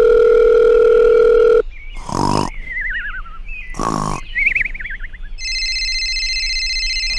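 Dubbed cartoon sound effects. A loud steady beep lasts about a second and a half, then come two short grunt-like vocal blips, each followed by a wobbling whistle, and near the end a steady high electronic ringing tone starts.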